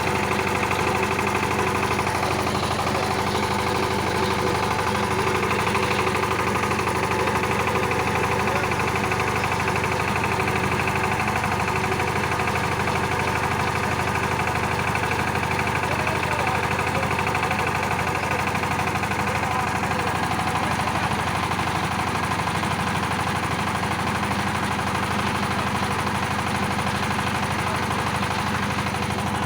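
Kirloskar power tiller's 15 HP single-cylinder, horizontal, water-cooled diesel engine running steadily with a rapid, even firing beat.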